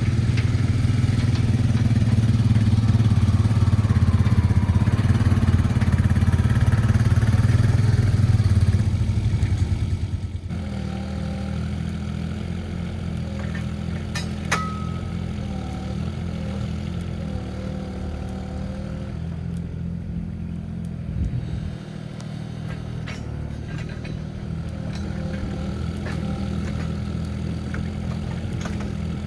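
A mini excavator's diesel engine running. It is louder for the first nine seconds or so, then settles about ten seconds in to a lower, steady note. There is a single sharp click about halfway through.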